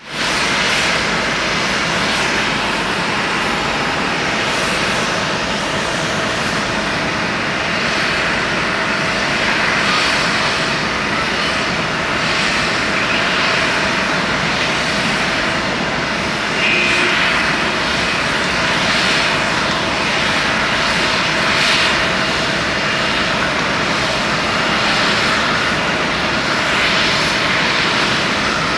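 Jet airliner's engines running at takeoff power: a loud, steady noise with a held droning tone, the distinctive engine sound of a China Airlines jet on its takeoff roll.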